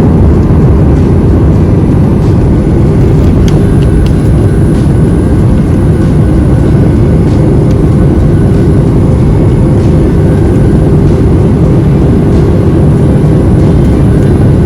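Steady, loud rumble of a jet airliner's engines and rushing air, heard from inside the passenger cabin, with a faint steady hum above it.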